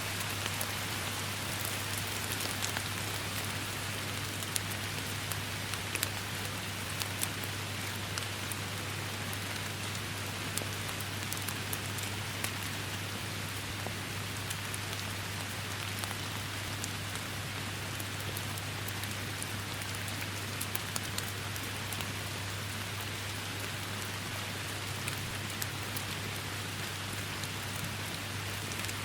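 Steady heavy rain, with a constant hiss and many sharp individual drop hits scattered through it. A steady low hum runs underneath.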